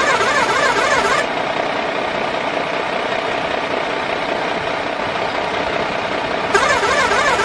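Radio-controlled toy truck's small electric motor and gears whirring steadily. A louder warbling sound, its pitch going rapidly up and down, runs through the first second and comes back near the end.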